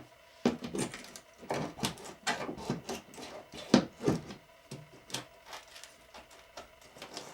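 Irregular knocks and metallic clinks of hand tools, nails and pieces of wood being handled and set down, with the sharpest knock about four seconds in.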